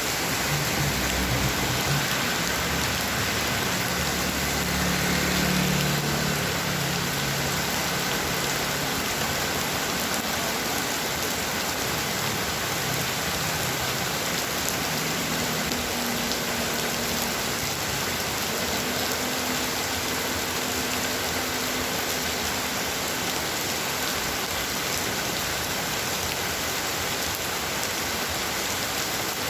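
Heavy rain falling steadily, an even hiss of drops, with a low rumble underneath for the first several seconds.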